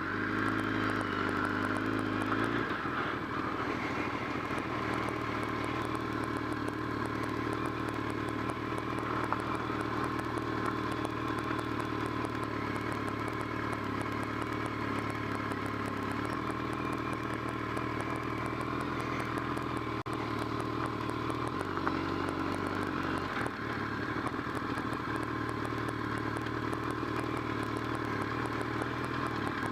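BMW K1200R's inline-four engine running as the bike is ridden, with the engine note steady and changing speed a few times, over a haze of road and wind noise.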